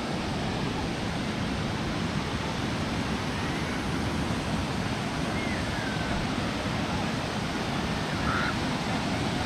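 Steady rushing of water falling at a waterfall, even and unbroken.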